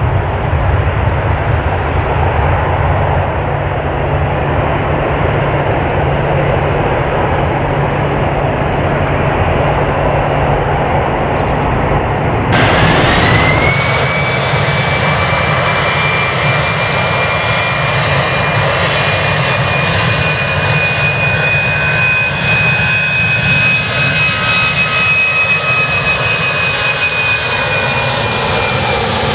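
Jet airliner engines at takeoff power: a deep, steady roar. About halfway through it changes abruptly to a jet engine with a high whine that rises, then holds steady and dips slightly near the end.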